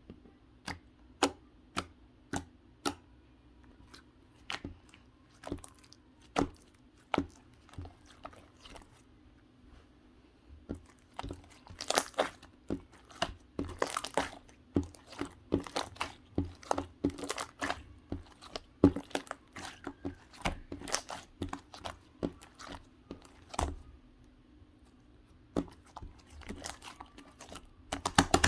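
Slime being squished and stretched by hand, giving irregular sharp pops and crackles. They are sparse at first and come thick and fast around the middle, over a faint steady hum.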